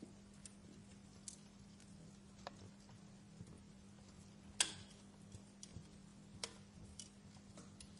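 Wood fire crackling softly, with irregular small pops and snaps and one louder pop about halfway through, over a faint steady hum.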